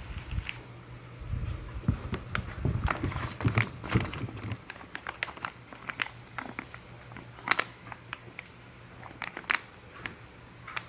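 Hands handling packaging and RC wheels: crinkling plastic with scattered clicks and taps. A low hum runs underneath and stops about four and a half seconds in.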